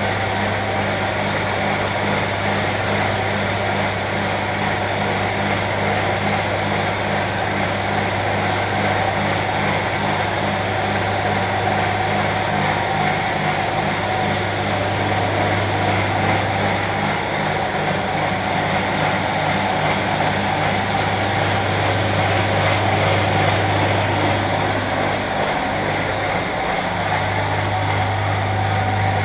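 A machine running steadily: a deep, even hum with a constant hiss over it.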